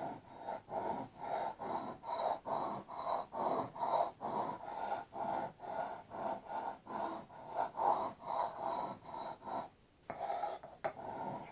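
Steel axe head being worked back and forth over the oiled fine-grit side of an oil stone: a regular scraping of steel on stone, about two to three strokes a second, with a brief pause near the end.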